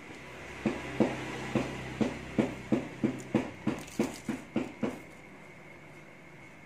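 Crisp chocolate-coated wafer being chewed close to the microphone: about a dozen crunches at an even pace of roughly three a second, stopping about five seconds in.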